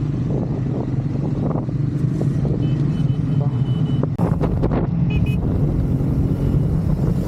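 Triumph Scrambler 400 X's single-cylinder engine running steadily as the motorcycle rides off. A short high beep sounds about three seconds in and again around five seconds, with a few sharp knocks between them.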